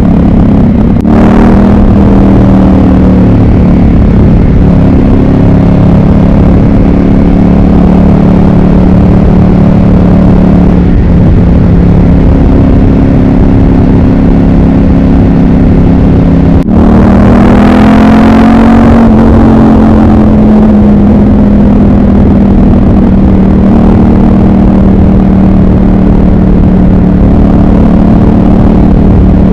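Ducati 748's 748 cc desmodromic L-twin engine running steadily on the road, its pitch shifting about a second in and again just past halfway.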